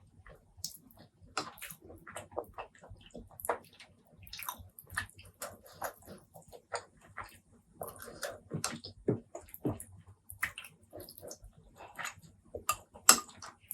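Close-miked eating sounds of spicy pork curry and rice: wet chewing with a rapid, irregular run of mouth clicks and lip smacks.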